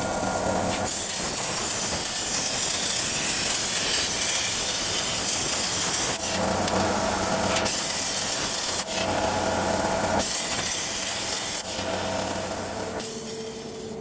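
CNC plasma cutter cutting steel plate, a loud steady hiss that changes character abruptly several times.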